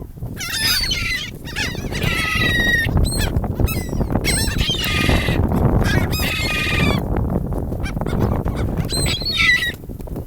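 Several gulls squawking and calling in quick overlapping bursts, then a short call again near the end, over a steady low rumble of background noise.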